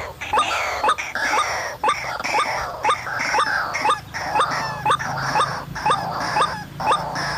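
White-breasted waterhen call: a steady, rhythmic series of repeated 'ruak' notes, about three every two seconds.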